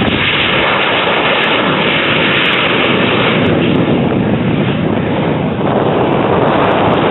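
Cessna Citation Mustang's twin Pratt & Whitney PW615F turbofans: a loud, steady jet roar as the aircraft flies its display. The hiss is brightest for the first few seconds, then turns lower and duller.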